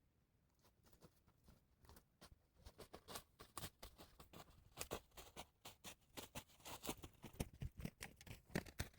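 Near silence, then faint irregular clicks and crunches from about two and a half seconds in, coming more often and a little louder toward the end.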